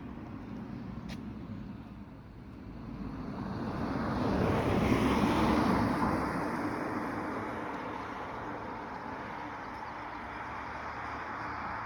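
A road vehicle passing close by, its noise swelling over a couple of seconds, peaking, then fading into steady traffic and outdoor noise.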